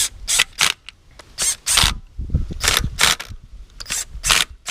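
Ratchet wrench being worked in short strokes, each stroke a quick burst of clicks, about three a second with two brief pauses.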